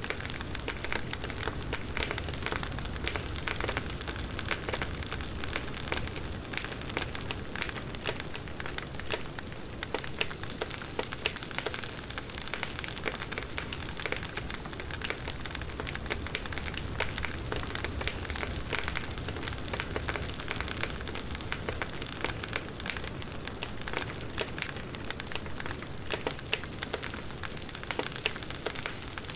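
Wood campfire burning, with dense, steady crackling and popping over a soft low rumble of the flames.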